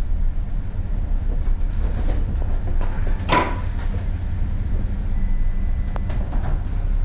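Deep, steady rumble of a ship labouring in a cyclone, with storm wind and scattered knocks. A loud rushing hiss comes about three seconds in.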